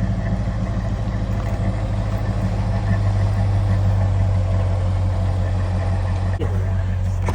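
A vehicle engine idling steadily with a low, even hum, and a sharp click near the end.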